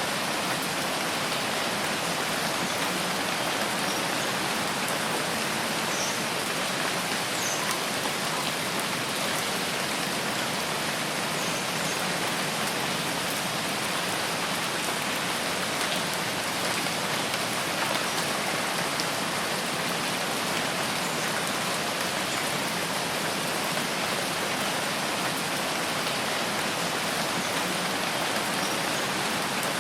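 Steady, heavy rain falling on a forest, a dense even hiss that does not change.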